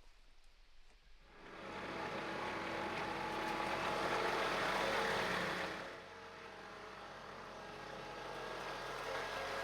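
An engine running, building up about a second in, loudest mid-way, then dropping back to a lower steady run about six seconds in.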